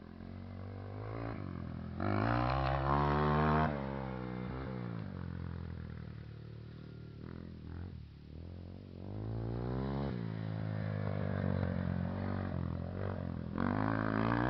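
Motocross dirt bike engines revving up and down, the pitch rising and falling again and again, loudest in a burst about two seconds in.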